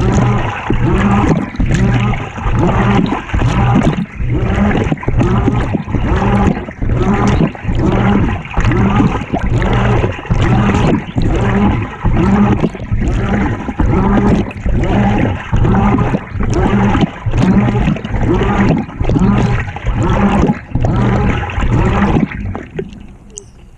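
Water churning and sloshing inside a GE GTW220ACKWW top-load washer's tub, heard from within the load, in regular wash strokes about three every two seconds with a motor hum under each. The strokes stop about 22 seconds in and the sound dies away.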